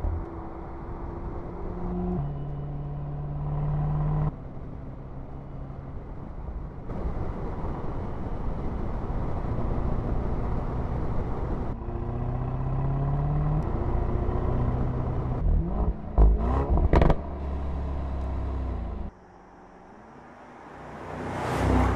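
Mercedes-AMG SL's V8 engine and exhaust while driving, the pitch rising under acceleration and stepping with gear changes, with a few sharp cracks about two-thirds of the way through. Near the end it drops away into a rising swell.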